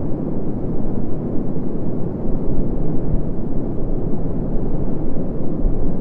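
Loud, gusty wind rumbling on the microphone, a low, even roar that rises and falls in level.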